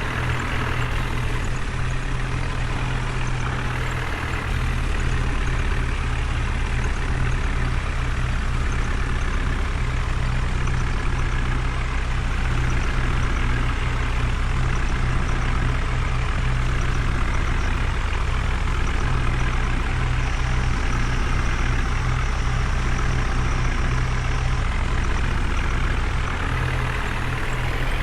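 Heavy diesel engine running steadily at low revs, its low hum growing stronger about four seconds in and easing back near the end.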